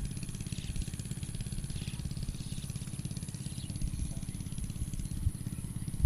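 A small engine running steadily, a fast even low thudding.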